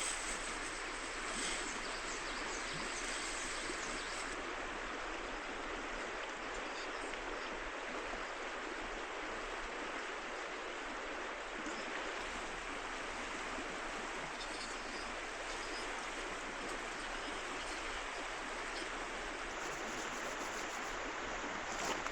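Steady rush of a flowing river, with a few light clicks near the end.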